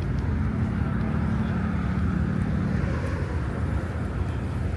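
City street noise dominated by a low vehicle engine rumble, with a steady hum that holds for the first three seconds or so.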